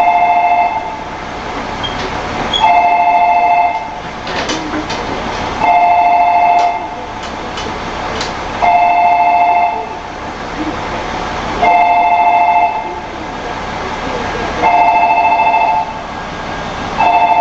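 Station departure signal on the platform: a two-tone electronic tone sounding for about a second every three seconds, over steady station noise.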